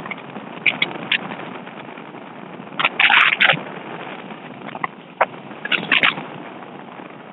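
Steady rushing wind and road noise from riding a bike, broken by sharp clatters and knocks, the loudest a burst of rattling bangs about three seconds in.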